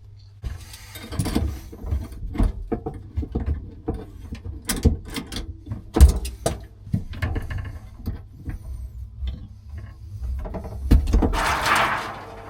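Hand wrench and pliers working on a compression valve fitting under a sink: irregular metal clicks, knocks and scrapes, with one sharp knock about six seconds in and a longer rushing scrape near the end.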